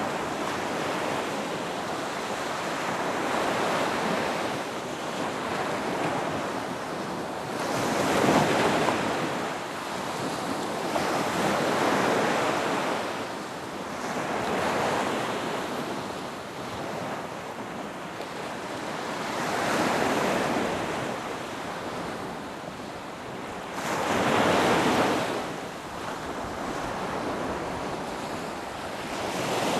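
Ocean surf breaking on a beach: waves wash in one after another every few seconds, each swelling and fading, over a steady wash of water.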